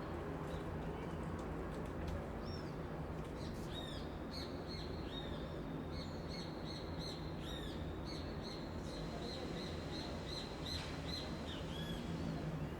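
City ambience: a steady rumble of distant street traffic, with a bird repeating short high chirps over it from about two seconds in.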